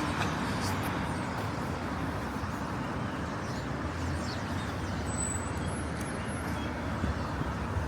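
Steady road traffic noise on a city street: a continuous wash of passing vehicles.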